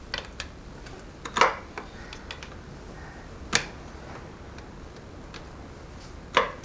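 Scattered sharp metallic clicks and taps of hand tools and parts on a transfer case while its oil pump is being worked loose, three of them louder, about two to three seconds apart.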